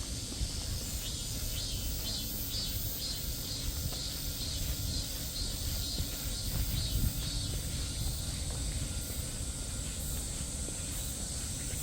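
Insects chirping: a steady high drone with rhythmic pulsing calls repeating a few times a second, over a low rumble.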